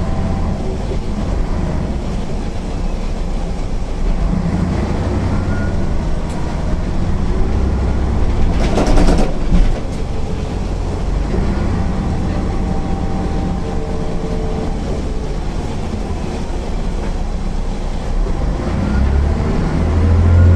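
MAN NL 262 city bus under way, its diesel engine and ZF 5 HP 600 automatic gearbox running with a steady low rumble and rising in pitch as it pulls away near the end. A short loud rattle comes about nine seconds in.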